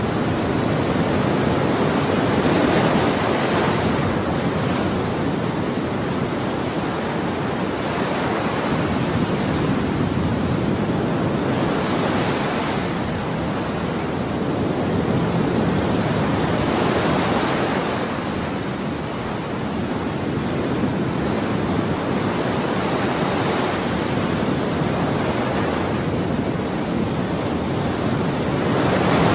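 Ocean waves washing on the shore, a steady rushing surf that swells and eases every few seconds.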